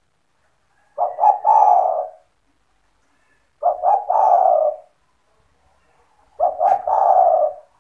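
Spotted dove (tekukur) cooing repeatedly: three phrases about two and a half seconds apart, each a couple of short notes running into a longer note.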